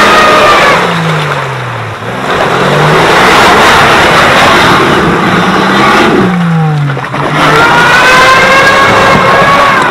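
UAZ off-roader's ZMZ-409 four-cylinder petrol engine revving hard and easing off several times, its pitch dropping and climbing again, with a loud rush of noise between the revs as it drives over rough off-road ground.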